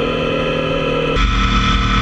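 Motorcycle engine running on the move with road and wind noise, cut off abruptly about a second in by rock music with distorted guitar.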